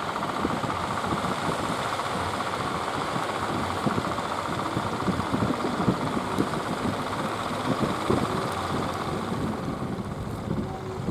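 Speedboat engine running steadily, with wind gusting on the microphone.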